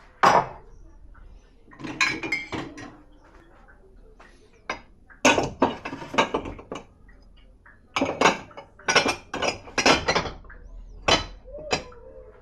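Dishes and cutlery clattering and clinking as they are handled at a dishwasher: a string of sharp knocks and clinks in clusters, with short pauses between them.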